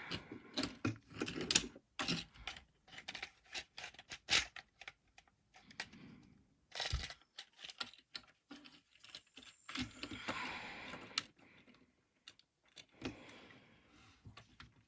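Plastic parts of a Transformers figure and its upgrade kit being handled and pushed together: irregular small clicks, taps and rattles, with a stretch of rubbing near the middle.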